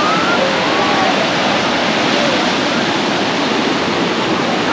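Ocean surf breaking on a beach: a steady, even rush of noise. Faint high gliding calls sound in the first second or so.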